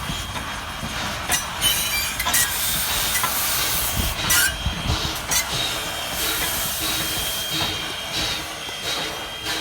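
Steam train with Strasburg Rail Road's 2-6-0 locomotive No. 89: a steady hiss of steam with irregular clicks from the rails and running gear. A thin, steady wheel squeal sounds through the second half.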